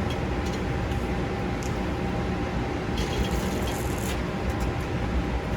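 Steady low rumble of a running vehicle, with faint light rattling about three seconds in.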